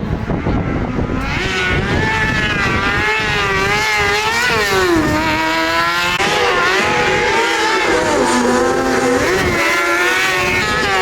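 Motorcycle engine revving, its pitch rising and falling again and again as the throttle is worked, starting about a second in over a gusty rumble.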